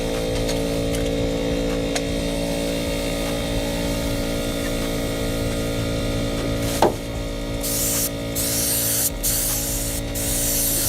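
A paint spray gun spraying clear coat in hissing passes of about a second each, separated by brief breaks, starting about three-quarters of the way in. A steady motor hum runs underneath, and there is a single sharp click just before the spraying begins.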